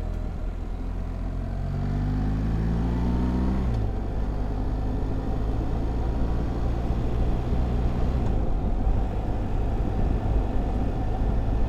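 BMW R1300GS's boxer-twin engine under way, its pitch rising as it accelerates for about two seconds, then dropping sharply at a gear change nearly four seconds in and holding steady, over a constant rush of wind and road noise.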